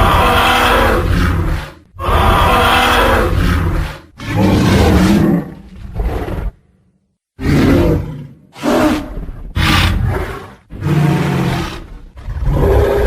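Tyrannosaurus rex roar sound effect: a series of loud, rough, growling roars, each lasting one to two seconds, with a brief full silence a little past the middle before the roars resume in quicker succession.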